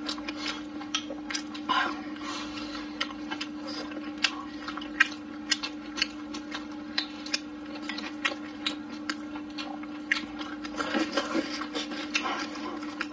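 Close-miked chewing and wet lip-smacking of a person eating braised food, many short irregular clicks and smacks, over a steady low hum.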